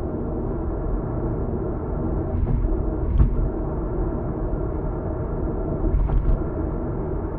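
Steady low road and engine rumble heard from inside a moving car, with a few brief thumps, the loudest about three seconds in.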